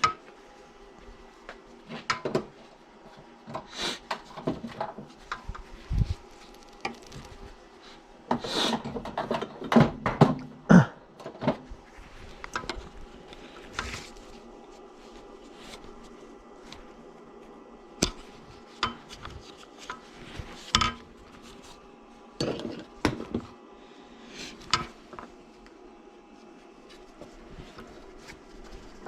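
Metal parts and tools being handled on a workbench: irregular clinks, knocks and scrapes, over a faint steady hum.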